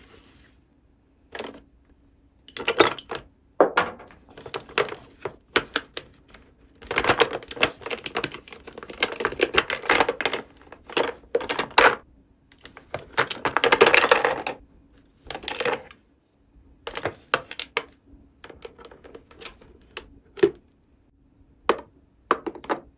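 Small plastic toy pieces being handled and set down: irregular clicks and taps, with a few longer stretches of dense clattering.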